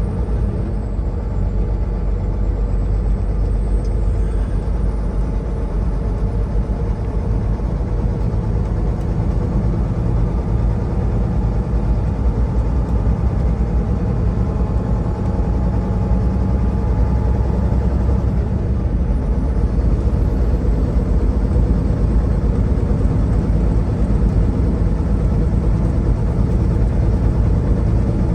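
Semi truck's diesel engine and road noise heard from inside the cab while driving, a steady low rumble.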